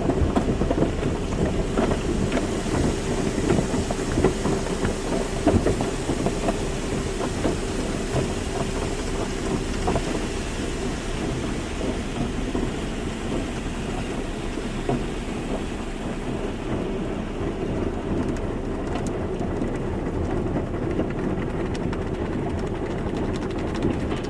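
Car wash: water spraying and drumming on a car's body over a steady machine hum, with many small knocks; the sound drops off at the very end.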